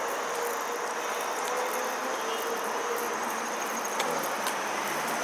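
Insects, likely crickets, trilling steadily as one thin high tone over an even background hiss of outdoor ambience.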